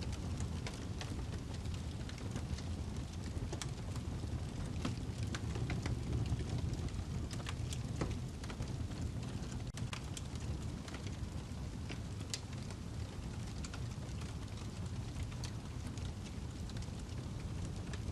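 Wood fire burning in a fireplace: a steady low rumble of the flames with frequent sharp, irregular crackles and pops from the burning log.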